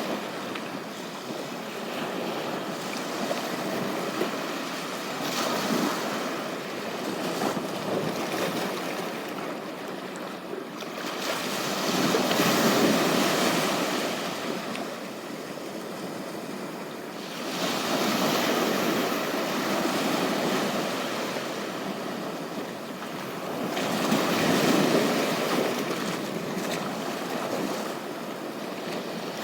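Ocean surf on a beach, waves breaking and washing in, swelling and easing every five or six seconds.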